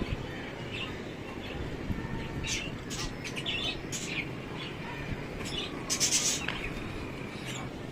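Small pet birds chirping in scattered short, high calls over a steady background hiss, the loudest burst of chirps about six seconds in.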